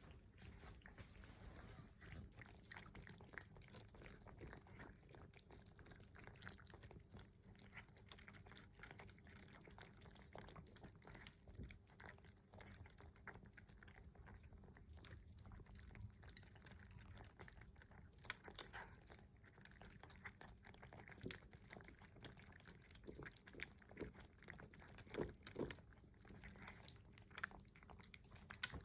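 Cats eating breakfast: faint, irregular clicks of chewing and biting, a few louder ones near the end.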